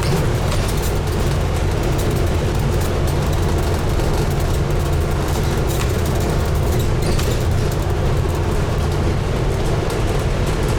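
Scania N250UD double-decker bus's diesel engine running steadily, heard inside the bus with a constant low hum and road and cabin noise.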